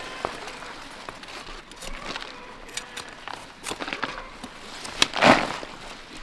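Leaves and stems rustling and crackling as harvested vegetables are handled, with scattered small snaps and one louder rustle about five seconds in.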